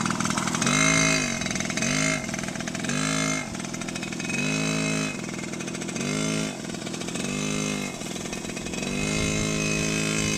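Small dirt bike engine being throttled on and off, its pitch rising and falling about eight times in a row as the rider works the throttle.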